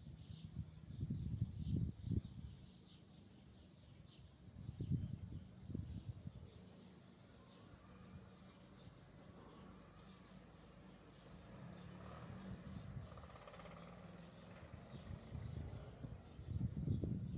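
A small bird chirping over and over, short high chirps about two a second. Now and then there is low rustling and bumping as hands work in the potted plants.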